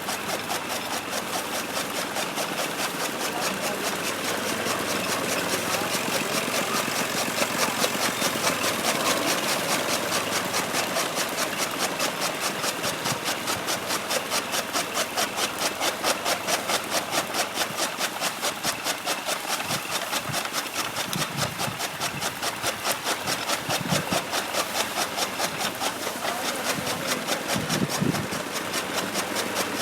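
Tractor engine running steadily with an even, rapid pulse while the tractor drives over chopped maize to compact silage.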